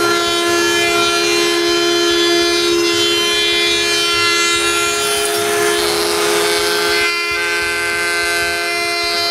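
Woodworking power tool running with a steady, high whine while it rounds over the edges and corners of birch pieces. The tone wavers slightly around the middle as the cut loads it.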